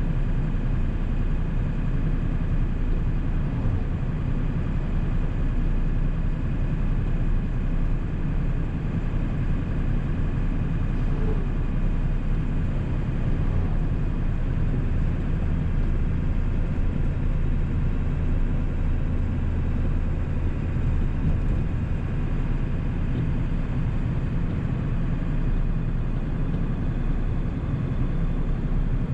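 1997 7.3 Powerstroke turbo-diesel V8 running steadily, a low even drone.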